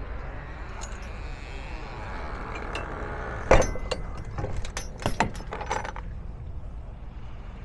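A run of sharp metallic clinks and knocks, the loudest about three and a half seconds in, over a steady low rumble.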